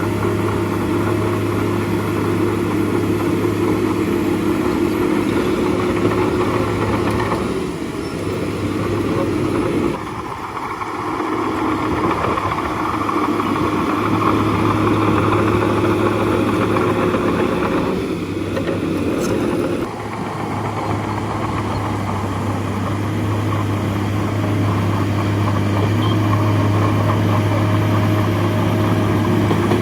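Bulldozer's diesel engine running steadily, dipping briefly about ten seconds in and again about twenty seconds in before coming back up.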